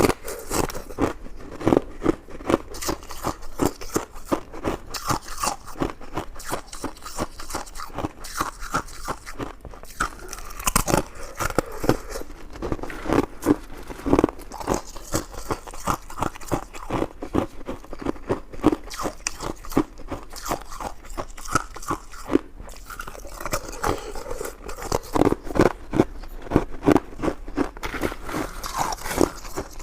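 A person eating close to the microphone, biting and chewing with a dense, irregular run of crisp mouth clicks, several a second.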